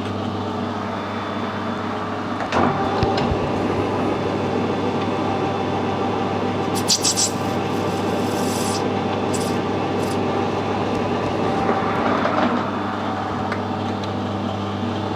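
Metal lathe running with a steady hum while a brass workpiece is scraped and rubbed on it, with a few sharp, scratchy bursts midway through.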